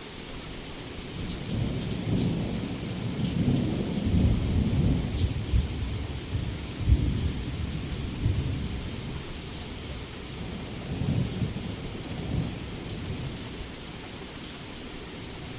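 Heavy rain falling steadily, with scattered drop ticks, under long rolling thunder that builds about two seconds in, rumbles for several seconds, fades and swells again before easing off.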